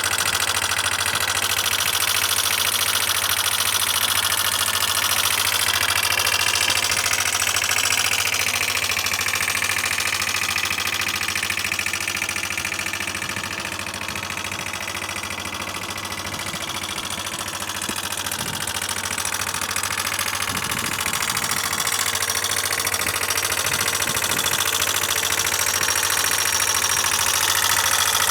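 Suzuki Address V125 scooter's single-cylinder engine running steadily with an abnormal noise, a little quieter around the middle. The owner links the noise to poor acceleration and a top speed of only about 40 km/h, despite the seller's claimed engine overhaul.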